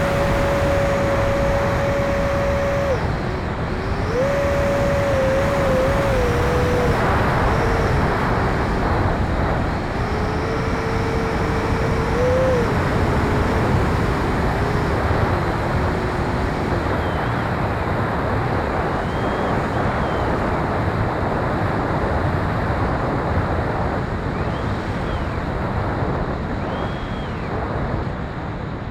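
70mm electric ducted fan of an RC F-16 jet whining under heavy air rush. The whine holds steady, dips about three seconds in, then steps up and wavers down as the throttle changes, and fades out about halfway through, leaving only the rushing noise.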